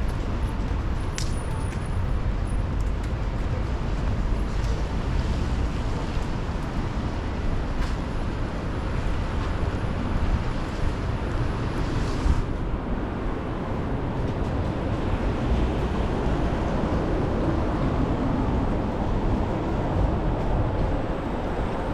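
Steady road traffic noise on a rainy city street, with strong wind rumbling on the microphone.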